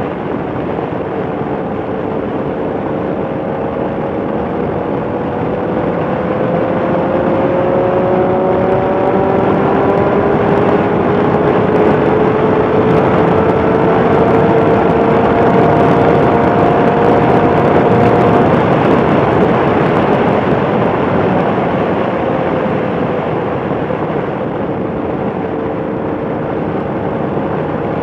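Motorcycle on the move, its engine note almost buried in heavy wind and road noise. The engine note climbs slowly as it speeds up through the middle, getting louder, then eases back down near the end.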